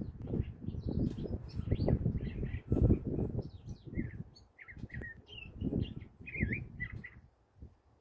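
A bird calling from the treetops: a run of short, quick chirps and warbled, gliding notes that stops about a second before the end. Under it is a louder, uneven low rumble on the microphone.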